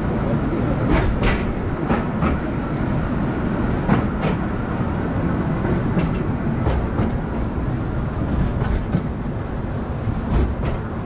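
The Akasawa Forest Railway's small narrow-gauge train running along the track: a steady rumble of wheels on rail with scattered sharp clicks and clacks from the rail joints.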